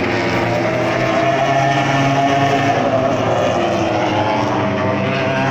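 Racing motorcycle engines running hard on the circuit, a continuous loud note from several bikes whose pitch slowly rises and falls.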